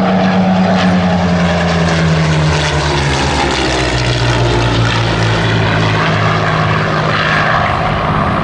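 Supermarine Spitfires' Rolls-Royce Merlin V12 engines running as the aircraft fly past. The engine note falls in pitch over the first four seconds as they go by, then holds steady.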